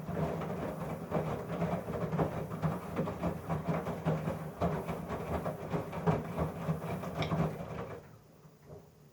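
Samsung WF1124XB front-loading washing machine drum running with dense, irregular rattling and clunking over a steady motor hum, cutting off about 8 seconds in and leaving a faint hum. It is part of a fault in which the drum stalls before the final spin and shudders several times before turning again, with no error shown on the panel.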